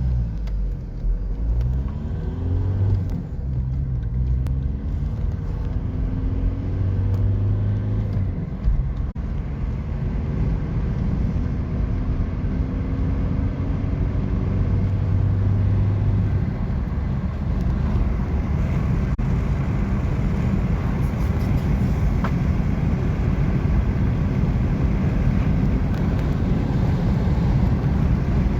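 1999 VW Golf IV 1.9 TDI four-cylinder turbodiesel accelerating hard through the gears of its manual gearbox: the engine note climbs in each gear and drops back at each upshift over the first half, then road and wind noise build steadily as speed rises.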